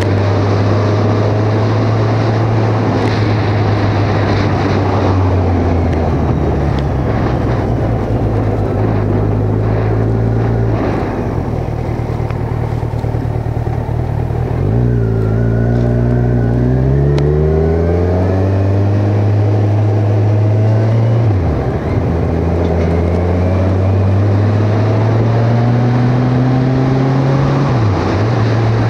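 Kawasaki Ninja 1000's inline-four engine running under way, heard from a helmet mount with wind rush. About halfway through the revs fall away, then climb again as the bike accelerates, with brief dips at gear changes later on and near the end.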